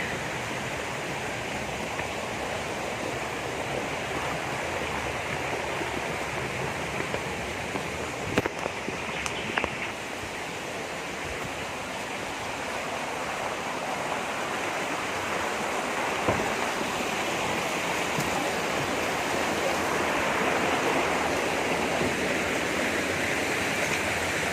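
Forest river rushing steadily, a continuous water noise that grows slightly louder in the second half, with a couple of brief clicks about eight to ten seconds in.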